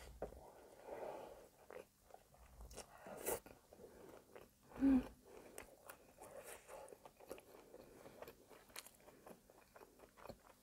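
Close-miked chewing of soft caramel-soaked brioche French toast: wet mouth clicks and smacks, with one louder mouth noise about five seconds in.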